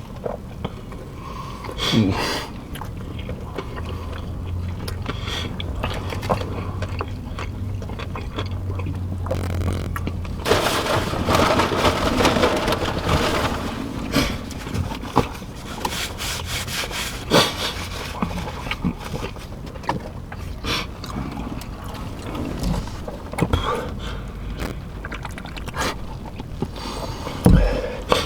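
People eating fast food at close range: chewing, with scrapes, clicks and knocks from handling food, wrappers and the tray. A low steady hum runs for a few seconds near the start, and a denser spell of rustling comes about halfway through.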